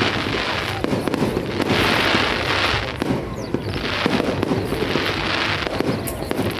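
Fireworks display: a dense run of bangs and crackling, with waves of crackling hiss from crackling stars that swell and fade about every two seconds.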